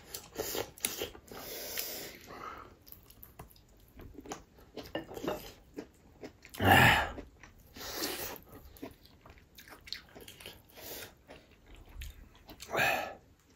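A person chewing and biting food, with wet mouth smacks and clicks. A louder, short mouth sound comes about seven seconds in and another near the end.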